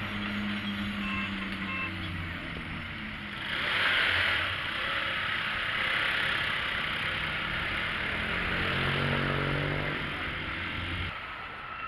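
Street traffic: a motor vehicle engine running with a steady low hum, a louder rush of a vehicle passing about four seconds in, and an engine rising in pitch as it speeds up near the end.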